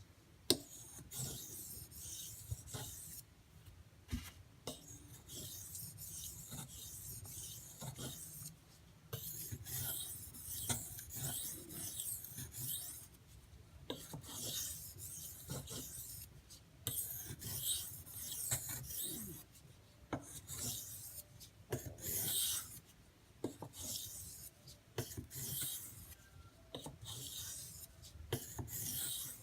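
A D2 steel knife blade being stroked across an Arkansas water stone under light pressure, just hand and knife weight. It makes a run of rasping, hissing sharpening strokes that come in bursts with short pauses between them.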